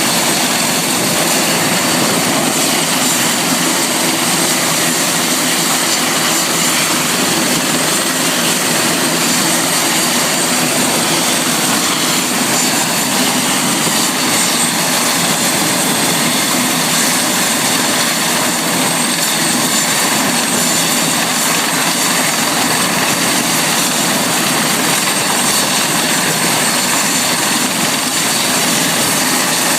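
Helicopter turbine engine and rotor running steadily: a loud, even noise with several high-pitched whines held on top.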